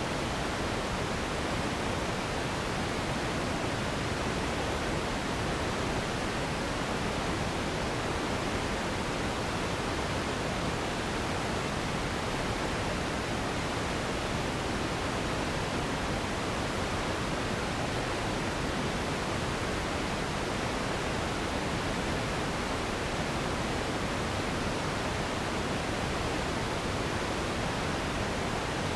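Steady sleep noise: an even, unbroken hiss that thins out in the highest treble.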